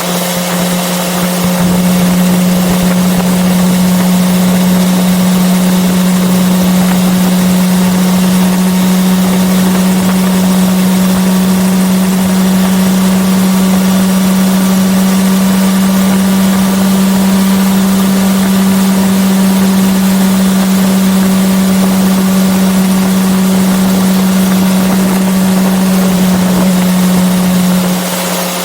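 Yamaha FZ6R sport bike's inline-four engine running at steady revs while cruising, over a rush of wind noise. The revs ease off near the end.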